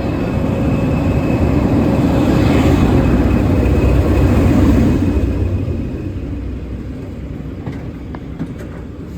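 A passing train's rumble, growing louder to a peak about halfway through and then fading away, with a few sharp clicks near the end.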